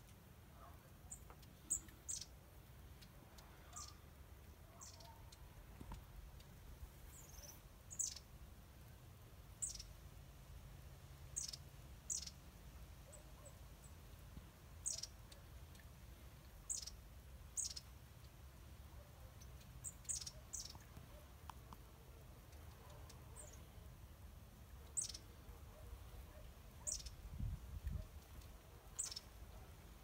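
Small birds chirping: short, high, falling calls, one every second or two.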